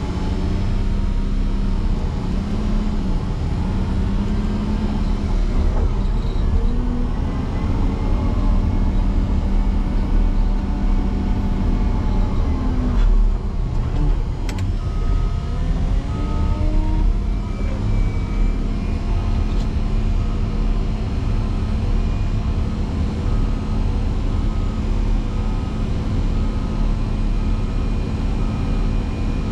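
Motor grader's diesel engine running hard while pushing snow, its pitch sagging under load and recovering twice. From about halfway, a steady beeping alarm sounds roughly once a second.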